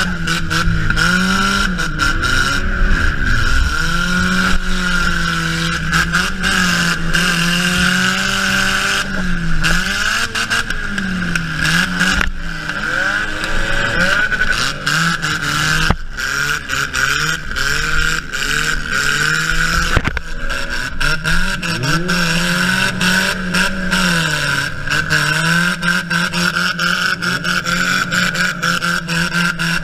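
Honda Civic demolition-derby car's four-cylinder engine revving up and down again and again under the driver's foot, heard from inside the gutted cabin over a steady high whine. A few sharp knocks come through in the middle, typical of hits in the derby.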